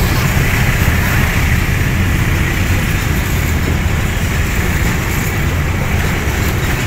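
Container freight train rolling past: a loud, steady rumble of steel wheels on the rails as the loaded flatcars go by.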